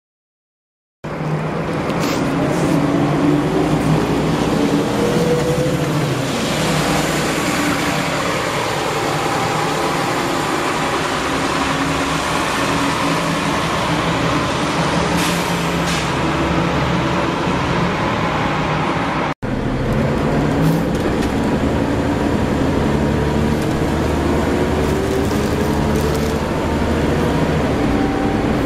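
Scania L94UB single-deck bus with its five-cylinder 9-litre diesel running steadily, its engine note rising twice as it accelerates. The sound cuts out for a split second about two-thirds of the way through.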